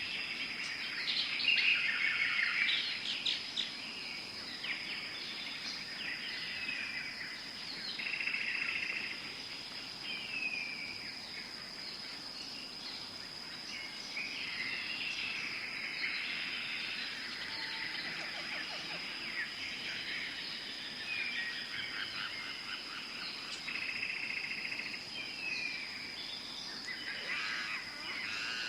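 Tropical forest ambience: many birds calling, with chirps, trills and repeated down-slurred whistles, busiest about two seconds in, over a steady high-pitched whine.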